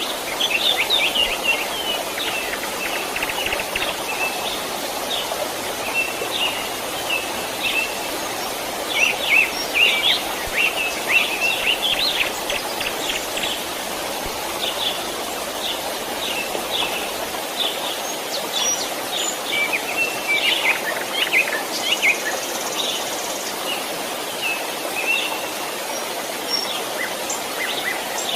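Steady rush of a gentle stream with many birds chirping over it, in quick runs of short high notes.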